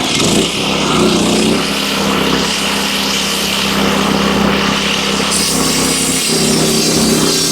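Wood-Mizer LX25 portable sawmill's small gas engine running steadily. Its note shifts briefly just after the start and again about six seconds in.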